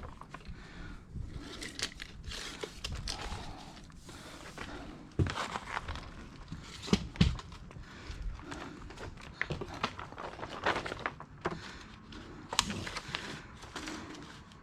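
Plastic vapour-barrier sheeting crinkling as it is handled, with scattered sharp clicks and knocks, the loudest a pair about seven seconds in.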